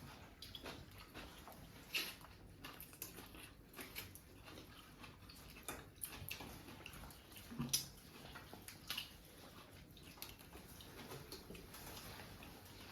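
Faint eating sounds: quiet chewing and scattered small clicks and knocks, the sharpest about two seconds in and near the middle.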